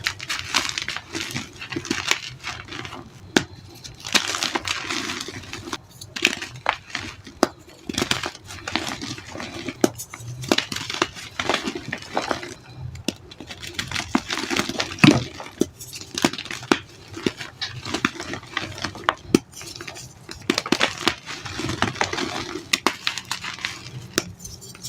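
Reformed white gym chalk being crushed and crumbled, a gritty crunching with many sharp crackles and snaps.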